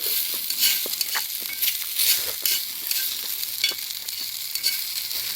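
Food sizzling in a hot pan over a campfire, a hiss with scattered pops and crackles that starts suddenly, as if food has just gone into the hot fat.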